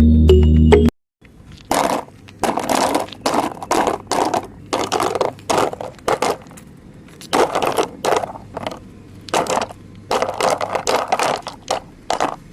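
A music sting cuts off about a second in. Then come irregular bursts of scraping and crunching, as dirt and small stones are scooped and dropped by a toy JCB backhoe loader.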